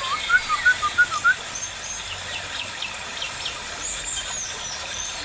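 Birds calling: a quick run of about seven short rising chirps in the first second and a half, then scattered thin high whistles and short chips.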